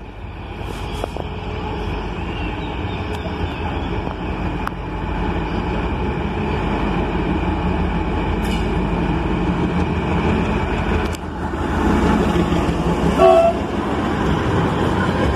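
CRRC diesel locomotive hauling a freight train of flatcars loaded with concrete sleepers, its engine rumble and the rolling of the train growing louder as it comes close and passes. Near the end there is a brief horn toot.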